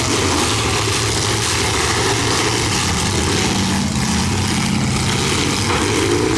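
Full-size demolition derby cars' engines running together, a steady, dense mix of engine noise.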